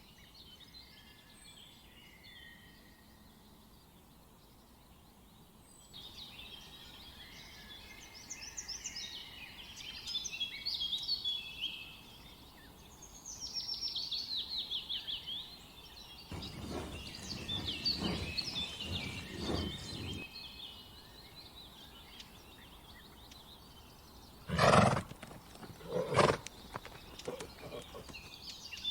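Several birds chirping and singing, with a louder, rougher call from a larger animal lasting about three seconds past the middle, and two short loud calls near the end.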